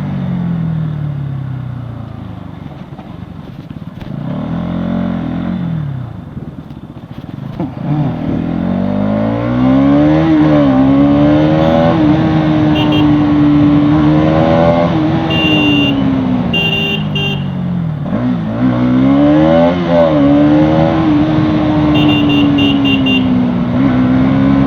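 Bajaj Pulsar NS200's single-cylinder engine heard while riding: the revs fall and it runs quietly for the first several seconds, then it pulls away, rising through the gears with a brief dip at each shift. A horn beeps in short bursts a few times midway and again near the end.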